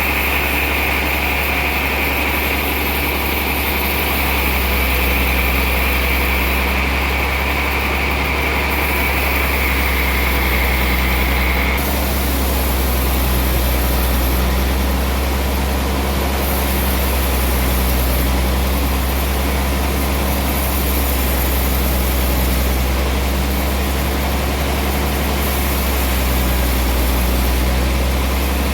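Sawmill machinery running steadily with a strong low hum, while the saw cutting a trembesi (rain tree) log gives a high whine that sinks slightly in pitch and stops abruptly about twelve seconds in; the machine keeps running afterwards.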